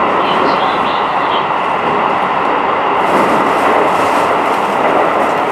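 Keikyu New 1000 series electric train running, a steady loud rumble of wheels and running gear heard inside the passenger car. A brighter hiss joins in about three seconds in.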